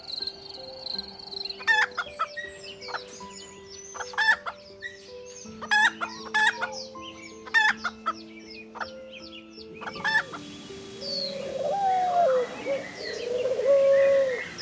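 Chickens calling: short, sharp clucks every second or two, over soft background music with sustained notes. About ten seconds in, the background turns noisier, with longer, wavering calls.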